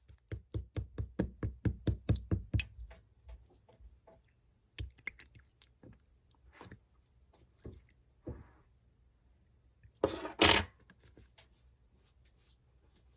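Clear slime being pressed and squeezed by hand, making sharp clicking pops. The clicks come in a quick run of about five a second at first, then scattered, with a louder squelching burst about ten seconds in.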